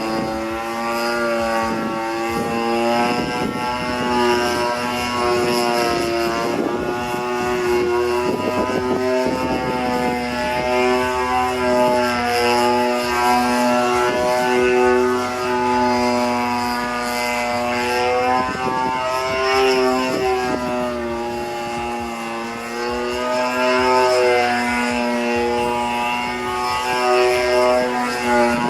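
The 26cc single-cylinder two-stroke gasoline engine of a CRRC 62-inch Katana V3 radio-controlled aerobatic airplane in flight, a buzzing propeller drone whose pitch rises and falls again and again as the throttle changes and the plane passes near and away.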